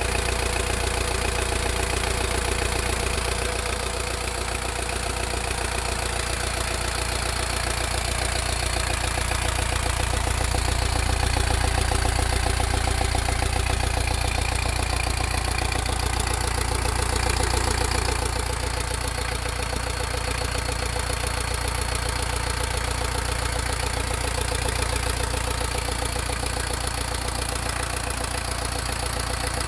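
Volkswagen Golf Mk3 petrol engine idling steadily, heard up close in the open engine bay.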